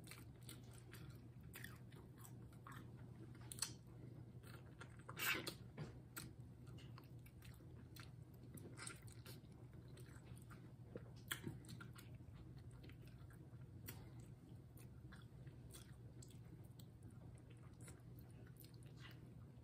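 Close-miked chewing and biting as a person eats duck neck meat off the bone: quiet, with scattered small smacks and clicks, the loudest about five seconds in. A faint steady low hum runs underneath.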